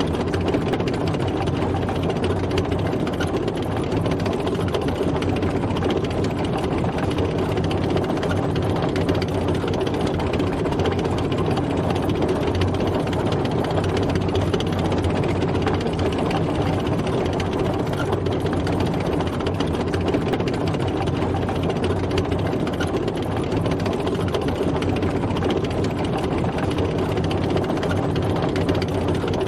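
Tank driving, its heavy engine running steadily.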